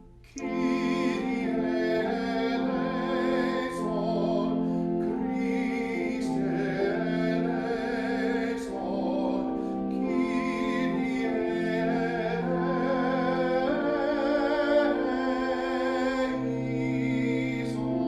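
Church music: singing with vibrato over sustained pipe-organ-like chords. It starts about half a second in, after a brief pause.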